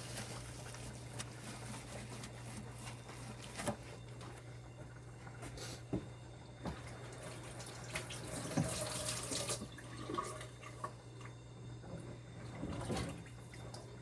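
Water running or splashing, with scattered clicks and handling knocks over a steady low hum.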